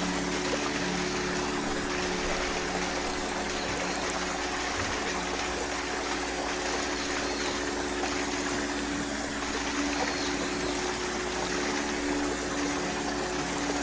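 Water trickling and running steadily, with a steady low hum underneath.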